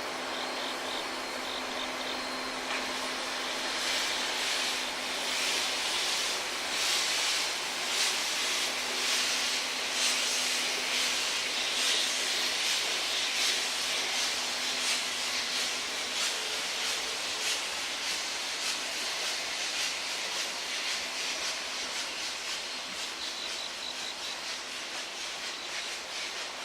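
JNR Class C57 steam locomotive running past with a rapid, regular chuff of exhaust beats and steam hiss. It grows louder to a peak partway through, then slowly fades as it draws away.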